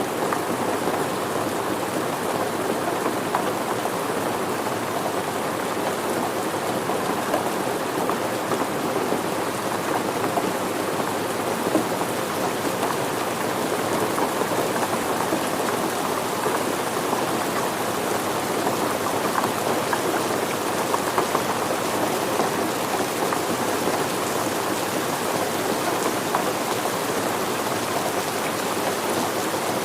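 Steady rain falling, an even, unbroken patter of many drops on surfaces.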